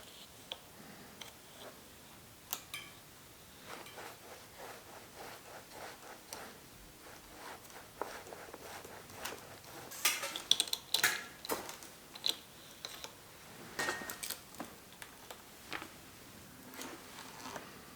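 Small metal parts and hand tools clicking and clinking while bicycle parts are handled and fitted, with a busy cluster of sharp clinks a little past the middle.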